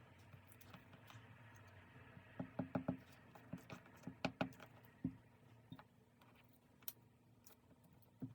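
Light taps and clicks from small objects being handled, in two quick clusters a couple of seconds apart and a single tap near the end, over a quiet room hush.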